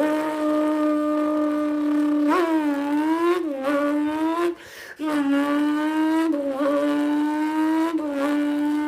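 A person's voice imitating a V10 race car engine at full throttle: a held, buzzing engine note that jumps up and drops back every second or two like gear shifts, with a short break about four and a half seconds in.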